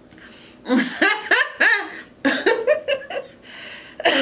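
A woman laughing in a run of short bursts, beginning about a second in, at her own joke.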